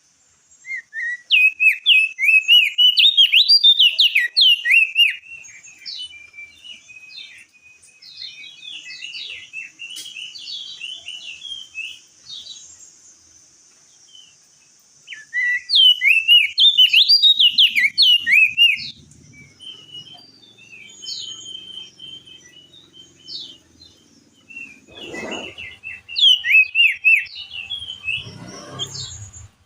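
Crested white-eye (opior jambul) singing in three loud bursts of fast, twittering song, with quieter chirping between them. Two dull knocks come near the end.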